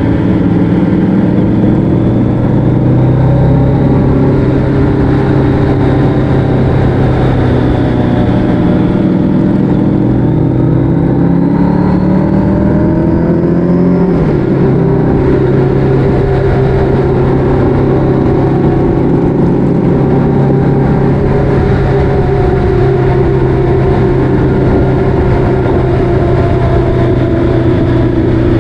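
Motorcycle engine running under way over steady wind and road rush. Its pitch climbs for several seconds, then drops suddenly about halfway through as it shifts up a gear, and runs steady after that.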